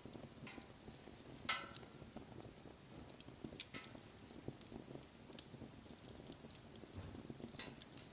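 Wood bonfire crackling, with scattered sharp pops over a faint hiss; the loudest pop comes about a second and a half in.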